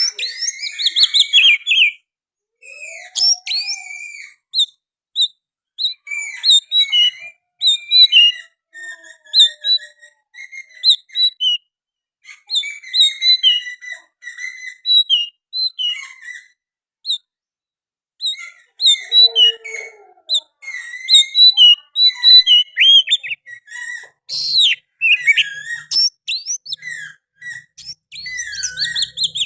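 Oriental magpie-robin singing a long, varied song of loud whistles and fast chirps in rapid phrases separated by short pauses, working in phrases mimicked from the sooty-headed bulbul.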